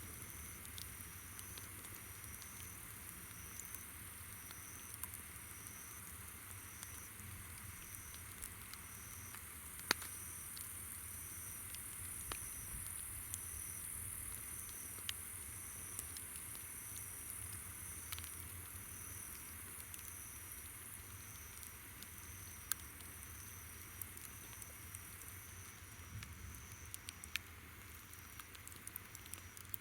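Wood campfire crackling with scattered sharp pops, one louder pop about ten seconds in. Behind it, insects keep up a steady high buzz and an evenly repeated chirp.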